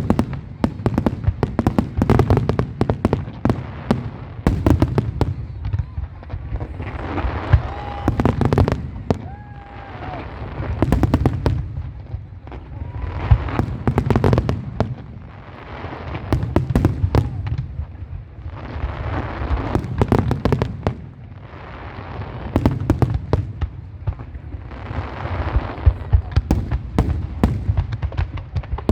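Fireworks display: a dense run of sharp bangs and booms, with swells of crackling every few seconds as crackle shells burst.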